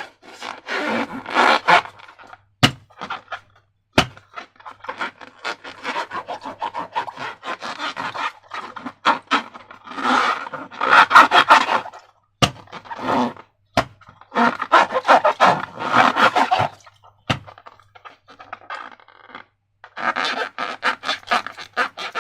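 Slime being worked and mixed: repeated bursts of sticky, crackling squelching broken by short pauses, with a few single sharp clicks.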